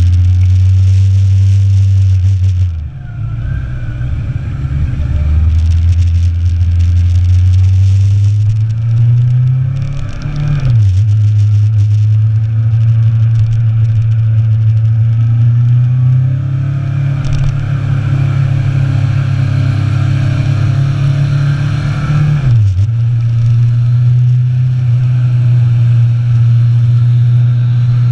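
Inline-four sport motorcycle engine running under way, heard from on the bike with wind noise. The engine note climbs under acceleration and drops sharply three times, at gear changes.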